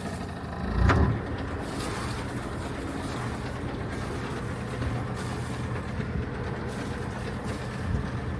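Sailboat's engine running steadily as the boat moves off its mooring, with one loud thump about a second in.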